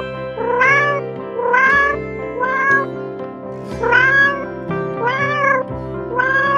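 Domestic cat meowing six times, about one meow a second, each call rising and then falling in pitch, over background music with a steady low drone.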